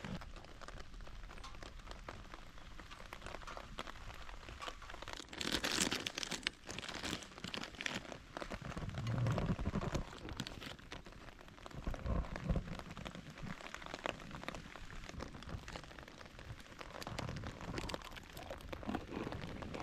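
Steady rain pattering as fine, dense ticks, with close handling noises over it: a crinkling rustle about five seconds in and a few soft knocks.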